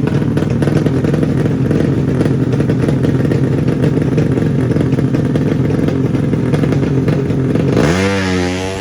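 Tuned 200cc underbone drag-racing motorcycle engines running loud and rough at high revs. Near the end a single clear engine note rises sharply and then wavers up and down.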